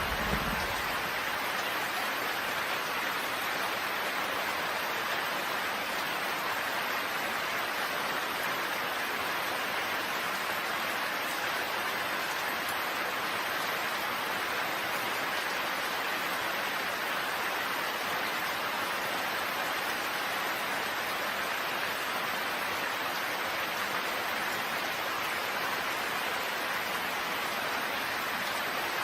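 Steady rain falling, an even hiss with no breaks. The low tail of a thunder rumble dies away in the first second.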